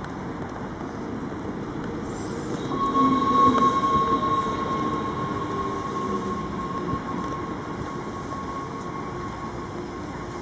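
Sprinter Light Train electric multiple unit pulling into a station platform and slowing, loudest as it passes about three seconds in, with a steady high squeal from about then until near the end.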